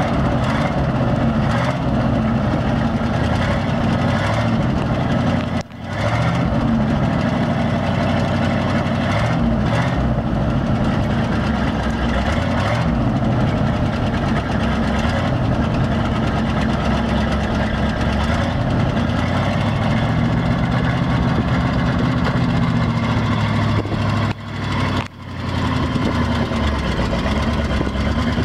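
International grain truck engine idling steadily. The sound cuts out briefly twice.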